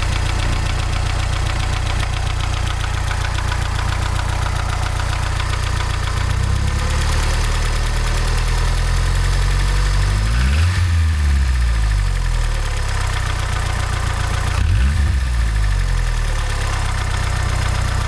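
Mazda 626 GD engine idling with a knock in it, revved briefly twice, once near the middle and again about three-quarters of the way in, each time dropping back to idle. The owner does not know what is causing the knock.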